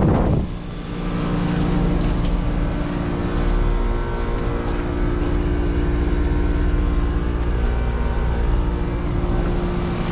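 2009 Carrier heat pump outdoor unit around the end of a defrost cycle: a loud rushing whoosh dies away about half a second in. The compressor and fan then run with a steady hum.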